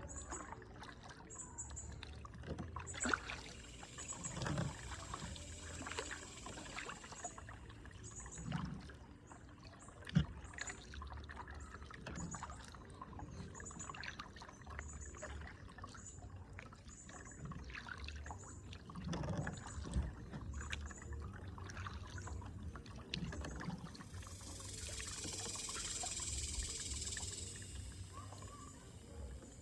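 Kayak paddling: water splashing and dripping off the paddle blades at irregular strokes, with a few seconds of steady hiss near the end.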